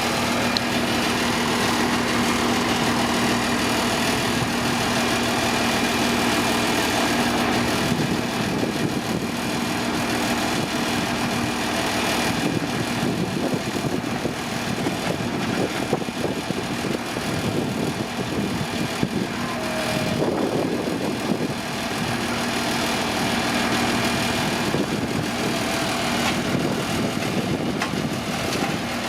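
Komatsu D41P bulldozer's diesel engine running with a steady hum; for much of the middle the sound turns rougher and noisier, then the steady note comes back near the end.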